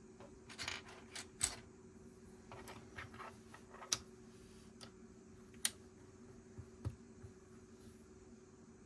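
Plastic Lego bricks being handled and pressed together: several sharp clicks, the loudest about a second and a half, four and five and a half seconds in, with short bursts of rattling between them over a faint steady hum.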